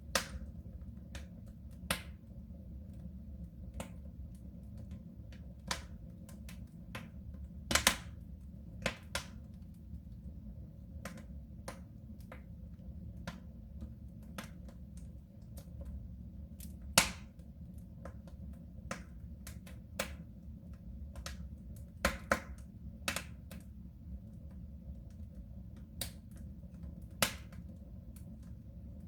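Wood fire crackling inside a soapstone stove: irregular pops and snaps over a steady low rumble, with a handful of much louder snaps scattered through.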